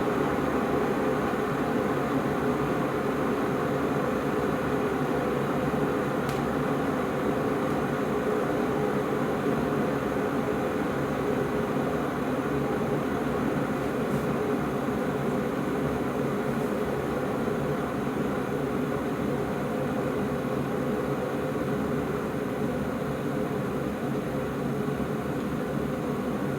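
IRIT IR 1360 electric kettle heating a nearly full load of water, a steady hissing rumble of the water coming up toward the boil.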